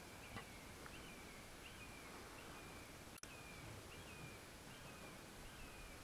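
A bird giving a short, high chirp over and over at an even pace, a little more than once a second, each note dropping in pitch, faint over a quiet background hiss.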